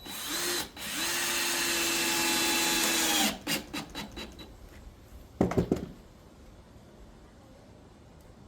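Power drill driving a screw into the plywood subfloor patch: a short blip of the motor, then a steady run of about two and a half seconds that winds down. About two seconds later comes a brief, louder rattling burst.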